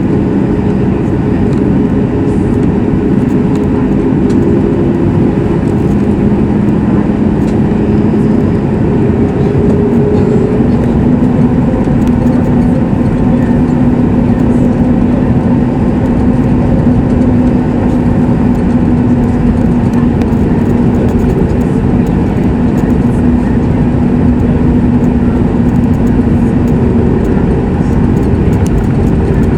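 Boeing 737 MAX 8's CFM LEAP-1B engines and airflow heard inside the cabin: a loud, steady rumble with a hum that steps up slightly in pitch about eleven seconds in.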